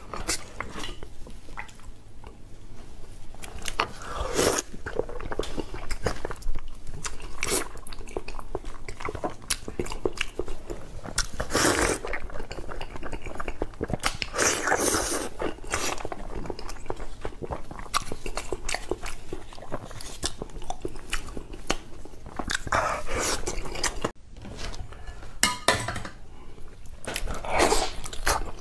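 Close-miked eating sounds: a person biting and chewing sausage and braised pork knuckle dipped in chili oil. The mouth noises come in irregular louder bursts every few seconds, with many small clicks between them.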